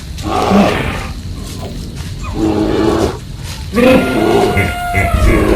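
Wild animal calls in three loud bouts, the last one a longer, steadier pitched call.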